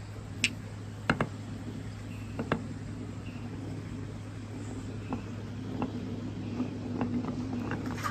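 Marbles running down a handmade marble run, giving scattered sharp clicks and knocks that come more often near the end, over a steady low hum.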